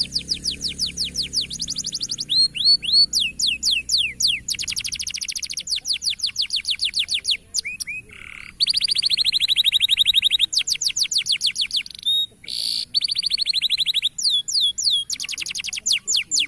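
Canary singing a fast, loud trilling song: runs of rapidly repeated high notes, many as quick downward sweeps, changing phrase every second or two, with short breaks about eight and twelve seconds in.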